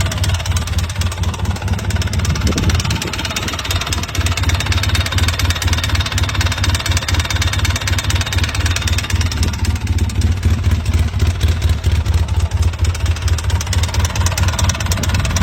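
Polaris Sportsman 800 twin-cylinder engine running with a rapid, even clatter: piston slap, the pistons rocking in cylinders worn by dirt that got past the intake, with the piston skirts badly scored.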